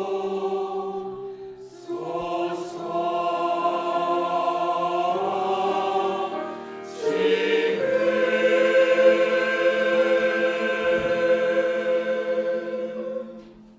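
Church choir singing slow, long-held chords in a Christmas cantata, with a few sung consonants between phrases. It grows louder about seven seconds in, and the final chord is released and dies away near the end.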